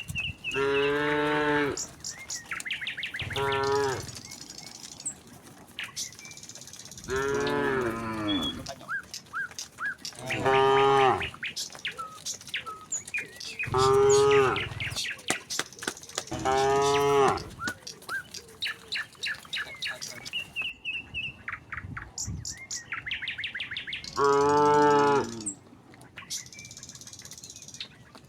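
A herd of cattle mooing: about seven long moos of a second or more each, a few seconds apart, with birds chirping faintly between them.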